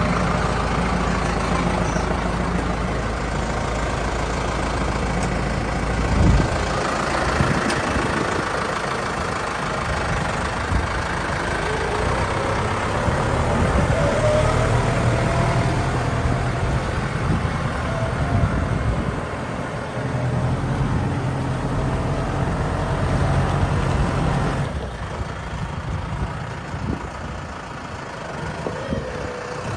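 Case JXU105 tractor's diesel engine running steadily, with a single knock about six seconds in.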